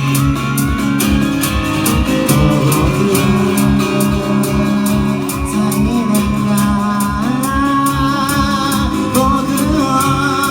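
Live band music: a singer's voice carrying the melody over guitar and a steady drum beat.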